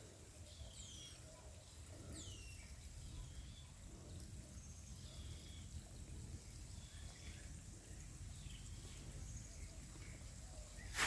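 Bird calls: short, high whistles that fall in pitch, repeated every second or two, over a low steady rumble.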